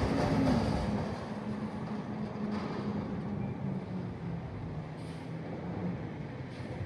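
Cummins ISL diesel engine of a garbage truck running, its pitch dropping about half a second in and then settling to a steady idle.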